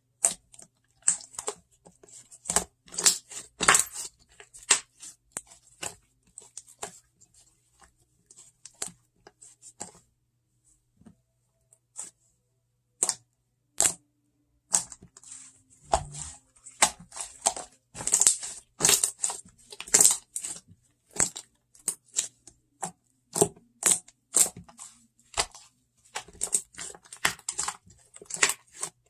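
Chocolate-themed slime being squeezed, stretched and pressed by hand, giving a rapid run of sharp sticky pops and crackles. The pops thin out for a few seconds about a third of the way through, then come dense again.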